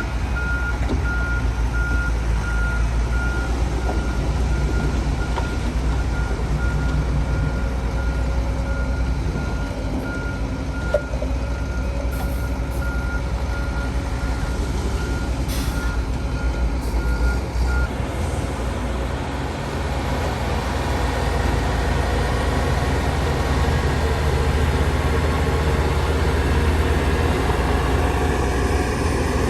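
Heavy diesel machinery running, with a reversing alarm beeping at a steady rhythm that stops about two-thirds of the way through; the engine carries on alone, its rumble rising toward the end.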